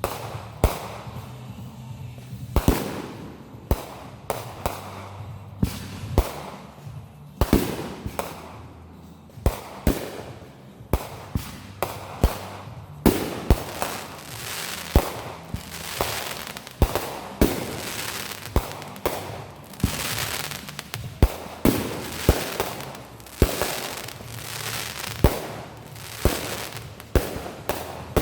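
Fireworks going off in a quick series of sharp bangs, about one or two a second, growing denser and louder from about halfway through.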